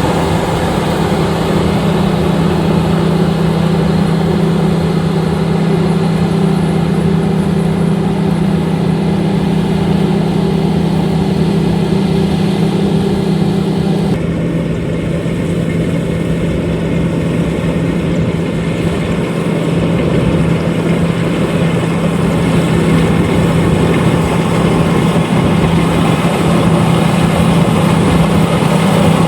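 LOVOL RG130EVO rice combine harvester running steadily with a deep, even engine hum. The sound shifts abruptly about halfway through, then carries on steady.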